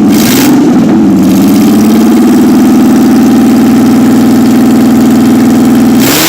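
Mercedes-Benz six-cylinder engine, loud, brought up in revs and held steady for about five seconds, then the revs drop near the end.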